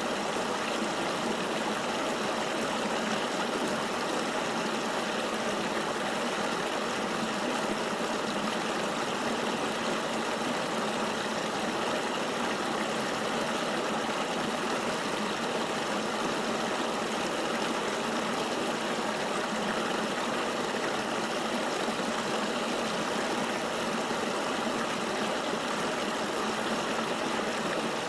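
River water flowing steadily, an even rushing with no change.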